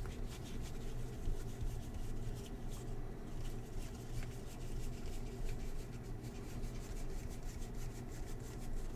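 Baseball trading cards being flicked and slid against one another by hand while a pack is sorted, a run of soft rapid clicks and scrapes over a steady low hum.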